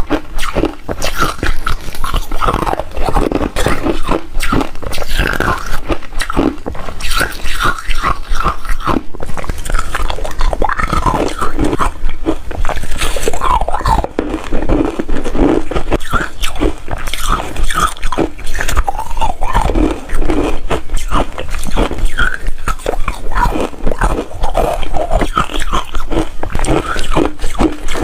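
A person biting and chewing hard refrozen ice, a continuous run of loud, close crunching and cracking.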